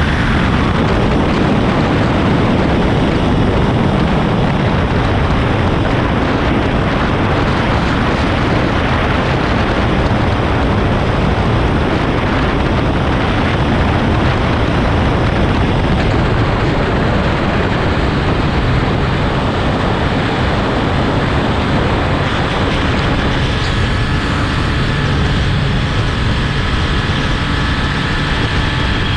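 Heavy wind noise on the microphone of a motorcycle at speed, with the Triumph Speed Triple 1200 RS's three-cylinder engine running underneath. The engine note comes through more clearly in the last several seconds.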